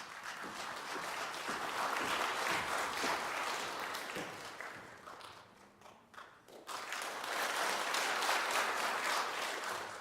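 Audience applauding. The applause thins out about halfway through, swells again, then fades away near the end.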